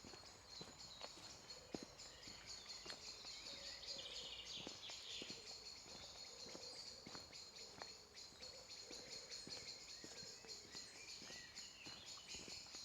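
Quiet woodland birdsong, a dense high chirping chorus, with faint footsteps on the path about twice a second.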